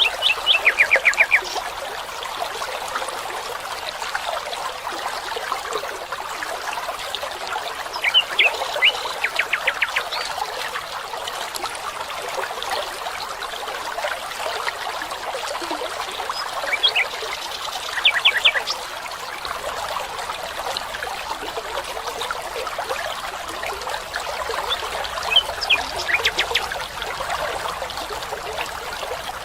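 A stream trickling steadily, with a songbird singing a short, rapid series of sharp descending notes four times, about every eight seconds.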